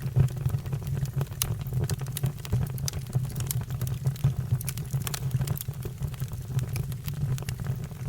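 Fire crackling, with frequent sharp snaps and pops over a steady low rumble.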